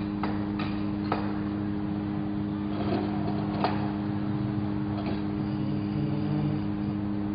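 Steady electrical or engine hum from the stick-welding set-up, with a few scattered sharp crackles over it.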